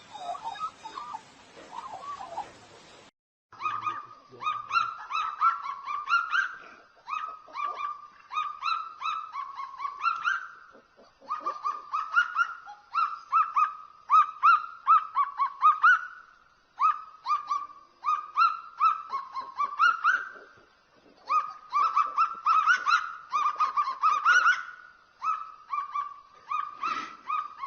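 A bird calling over and over from about three seconds in, in bursts of rapid notes, each burst rising in pitch at its end.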